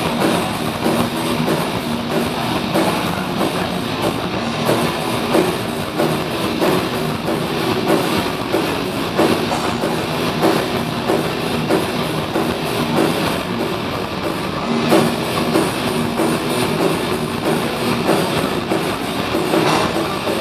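Rock band playing live at full volume: distorted electric guitars, bass and drums hitting steadily, heard as a loud, dense wash from the audience.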